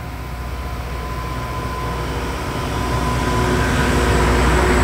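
Train approaching and drawing level close by: a low rumble with steady whining tones that grows steadily louder, with a rising hiss as the locomotive passes.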